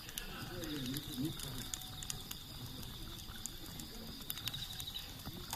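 Wood campfire crackling, with scattered sharp pops and snaps.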